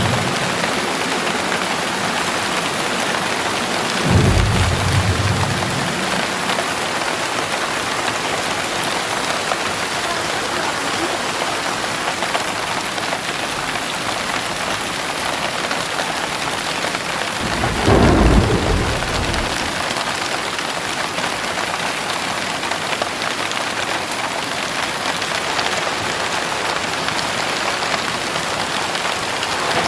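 Heavy rain pouring steadily, with two rumbles of thunder: a short one about four seconds in and a louder, longer one a little past the middle.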